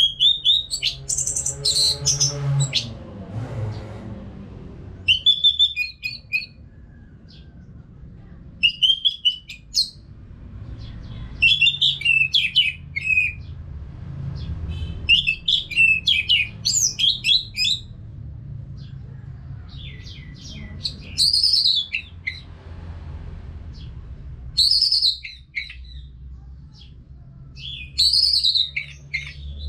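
Orange-headed thrush singing: about nine loud, varied whistled song phrases, each a second or two long, repeated every few seconds without long pauses. A steady low hum sits underneath, with a low falling tone in the first few seconds.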